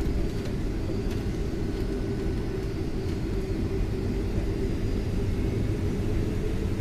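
Boeing 757 heard from inside the passenger cabin: a steady low rumble of engines and airframe.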